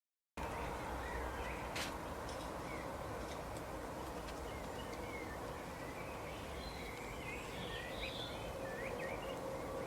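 Birds chirping with short, high, scattered calls over steady outdoor background noise and a faint hum; the sound cuts in abruptly just after the start.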